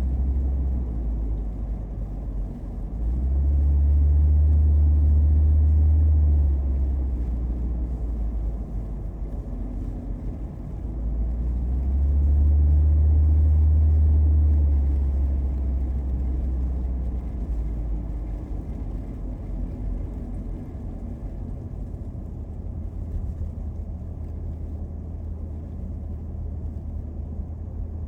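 A car driving, heard from inside the cabin: a steady low rumble of engine and road that swells louder twice, for a few seconds each time.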